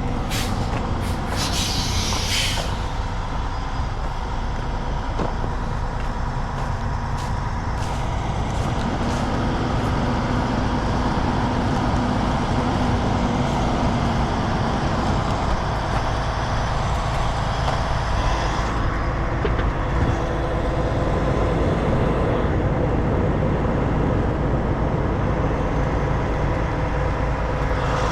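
Heavy truck diesel engine running steadily, with a short burst of air hiss, typical of an air brake, about two seconds in.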